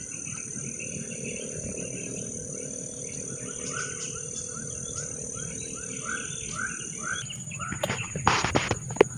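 A bird calling a quick run of short chirps, about four a second, over a steady high-pitched hum. Near the end, loud rustling and brushing noises cover it.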